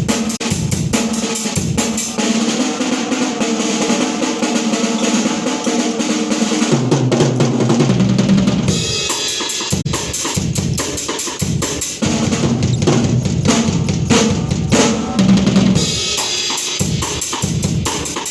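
Martial drumming: fast snare-drum rolls over bass-drum beats, with held bugle notes sounding over it for about the first half.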